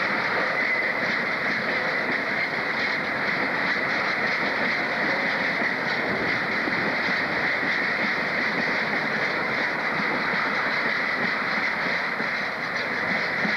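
A train running on the rails: a steady, even noise with no clear rhythm.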